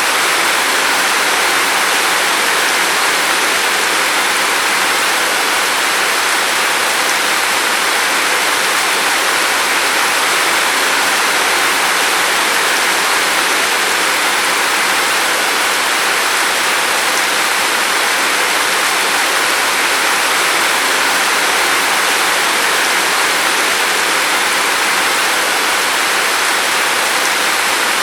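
Steady heavy rain: an even, unbroken hiss of falling water with no separate drops or gusts standing out.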